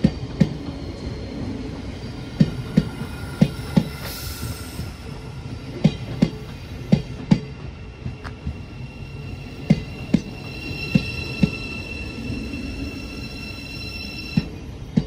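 Thameslink Class 700 electric multiple unit arriving slowly at the platform. Its wheels click in pairs over a rail joint as each bogie passes, every couple of seconds, over a steady rolling rumble. A high, steady whine grows stronger in the second half.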